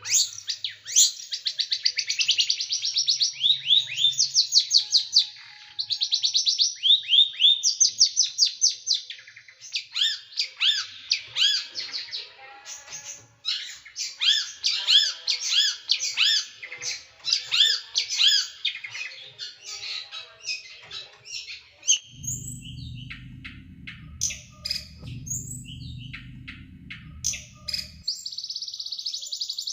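Small songbird singing high, fast runs of sharp, tightly packed downward-sweeping notes, the rapid 'tembakan' bursts kept for training songbirds. A low steady hum runs underneath for about six seconds near the end.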